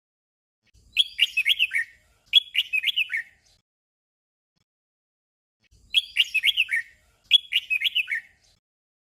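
Red-whiskered bulbul singing a short doubled song: two quick phrases of bright, rising and falling whistled notes back to back. The song comes twice, with a pause of about two seconds between.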